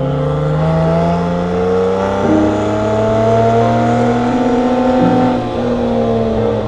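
Porsche 911 flat-six engine accelerating, its pitch rising slowly, with a change in the note about two seconds in and again about five seconds in.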